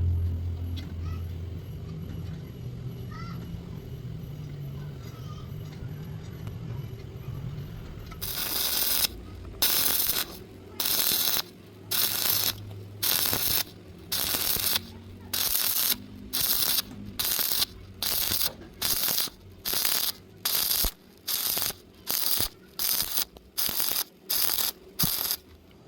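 A low hum for about eight seconds, then an electric welding arc crackling in short stitch-welding bursts, each about half a second long and repeating a little over once a second, about twenty in all.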